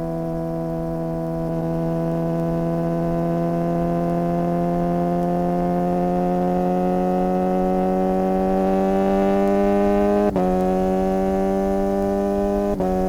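Suzuki GSX-R600 inline-four engine pulling steadily under acceleration, its pitch climbing slowly. It is broken by two brief clean cuts, about ten seconds in and near the end, taken for quickshifter upshifts.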